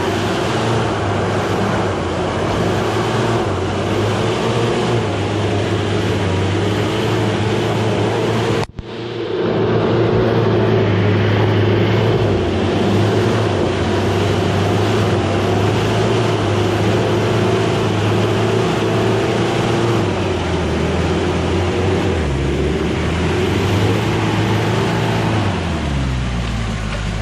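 Off-road 4x4 engine running hard and steady. The sound cuts out for a moment about nine seconds in, and the revs fall away near the end.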